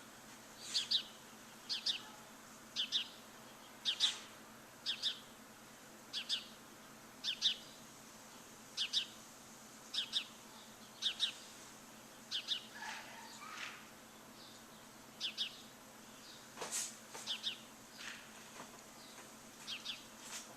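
A bird calling with short, high chirps, often in quick pairs, repeated about once a second over a faint steady background hiss.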